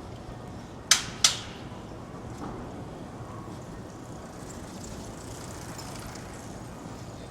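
Two sharp cracks about a third of a second apart, over the steady hubbub of a busy pedestrian street.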